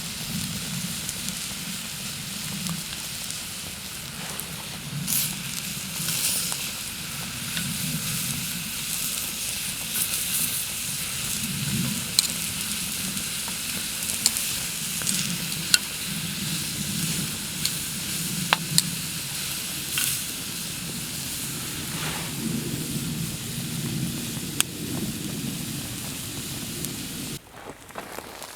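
Meat sizzling over a wood campfire, a steady hiss with sharp pops and crackles scattered through it. It cuts off abruptly near the end.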